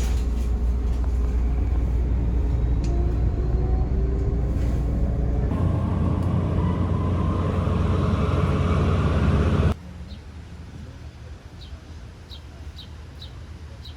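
Train running, heard from inside the car: a loud low rumble with a faint rising motor whine, getting louder about halfway. It cuts off suddenly to a much quieter background with a series of short, evenly spaced high chirps near the end.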